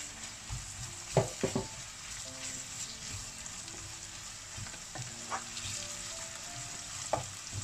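Sliced onions and ginger-garlic paste sizzling in hot oil in a non-stick wok, stirred with a wooden spatula that knocks and scrapes against the pan a few times, loudest about a second in.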